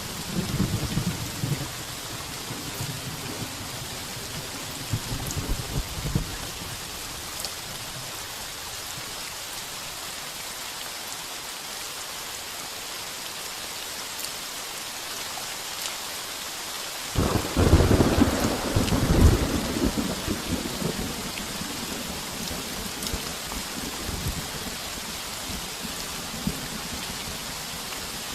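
Heavy rain falling steadily on a tin roof, with thunder. Low rumbles come in the first couple of seconds and again around five seconds in, then a louder, deep thunderclap rolls for about three seconds after the middle.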